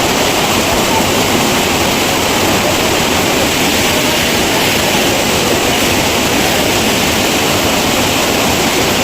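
Waterfall pouring into a natural swimming pool, heard up close as a loud, steady rush of water.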